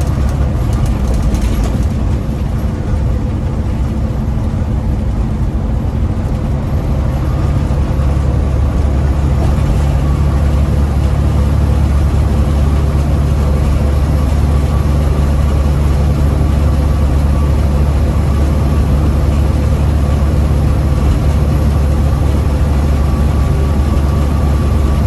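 Heavy diesel truck engine running steadily, a low even hum with no change in pace.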